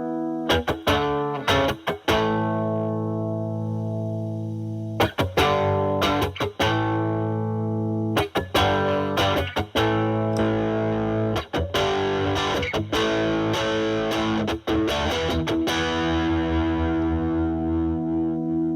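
Electric guitar (Fender Stratocaster) through a Boss DS-2 Turbo Distortion pedal into a Marshall Valvestate amp on its overdriven drive channel: distorted chords struck and left to ring, about a dozen in all, ending on one long held chord.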